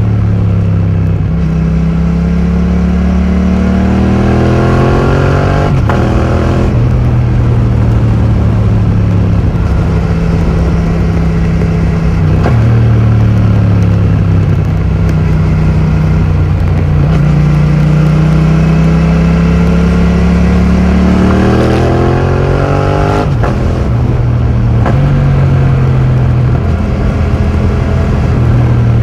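2020 Yamaha MT-07's 689 cc parallel-twin engine through an Akrapovic full titanium exhaust with the dB killer removed, ridden through the gears. Revs climb and fall back at several upshifts, with longer stretches of steady running in between.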